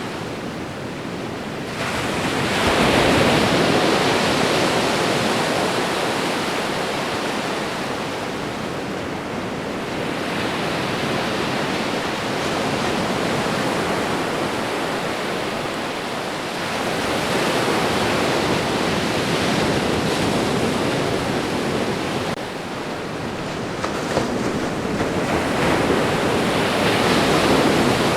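Ocean waves breaking and washing on the shore: a continuous surf hiss that swells and eases as successive waves come in, with a swell soon after the start and two more in the second half.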